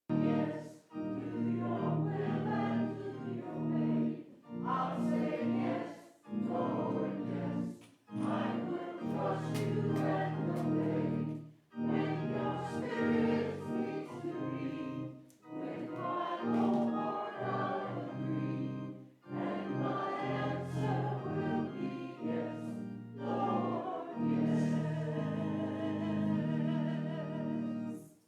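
Choir singing in phrases a few seconds long, separated by short pauses; it starts and cuts off abruptly.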